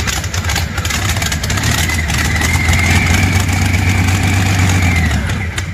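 Large supercharged engine running loudly, with a deep rumble and a high steady whine over it. The whine rises slightly about two seconds in, and the sound cuts off just before the end.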